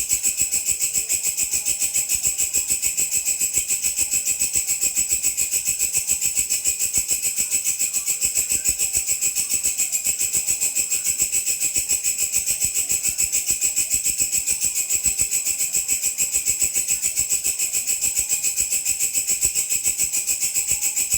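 A grasshopper (belalang) calling: a high, shrill, buzzing trill pulsing fast and evenly without a break.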